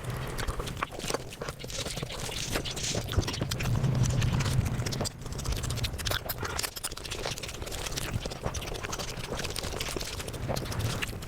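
Eating sounds sped up to five times speed: a dense, rapid run of chewing and lip-smacking clicks close to the microphone.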